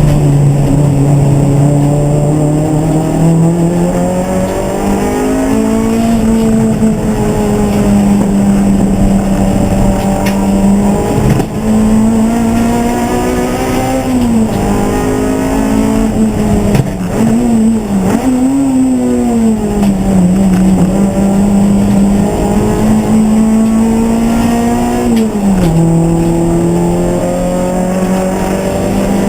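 Race car engine running hard at speed, one continuous engine note that climbs in pitch, holds steady, wavers up and down through the middle with throttle and gear changes, then drops once near the end.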